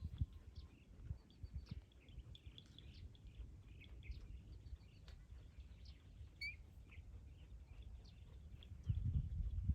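Faint birds chirping in short, scattered calls, with one clearer call about six and a half seconds in, over a low rumble with a burst of thumps near the end.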